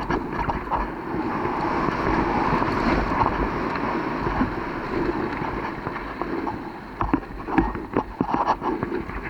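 Wind rushing over a moving microphone while riding, with scattered knocks and rattles from the ride over rough ground.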